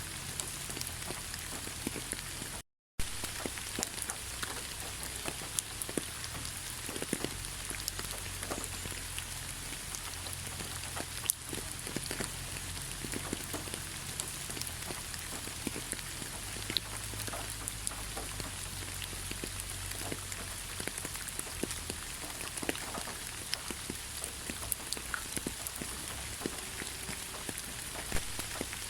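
Steady rain falling in a thick pine forest, an even hiss with many individual close drops ticking. The sound cuts out completely for a split second about three seconds in.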